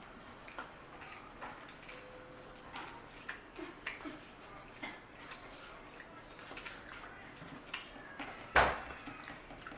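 Two people eating sushi fast: scattered small clicks, taps and mouth noises, with one sharp, loud knock about eight and a half seconds in.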